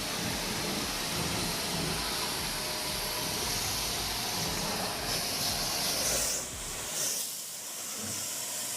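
A steady hiss, like a jet of spray or gas, which drops away sharply about six and a half seconds in, leaving a fainter high hiss with two short louder puffs.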